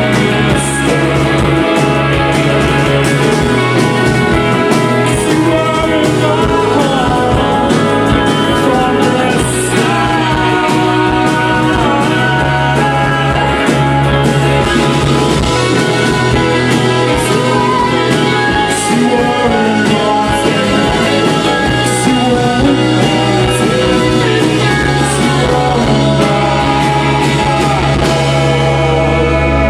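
Rock band playing live: electric guitars, bass and drums with a sung vocal, loud and continuous.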